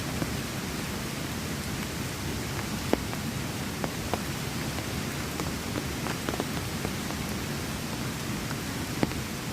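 Steady heavy rain with scattered single drops striking sharply close by, the loudest about three seconds in and near the end.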